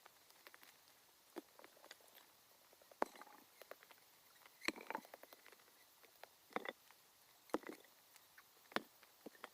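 Faint, irregular rustling with sharp snaps and cracks of twigs and brush, five louder ones spaced about a second apart.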